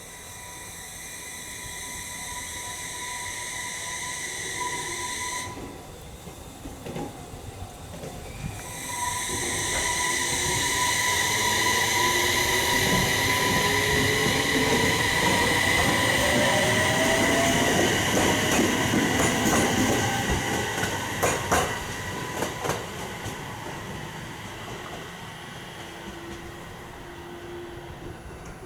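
JR East 701-series or E721-series electric multiple unit starting off and accelerating. Its traction inverter gives a steady high whine and a tone that rises in pitch as the train gathers speed. Over it sits a shrill ringing, the unusual noise that some of these units make from departure up to the inverter's mode change. A few sharp clicks come around two-thirds of the way through, and the sound then fades as the train moves away.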